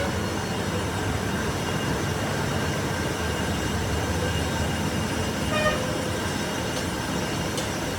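A machine running steadily: a continuous low rumble with a faint steady high whine over it.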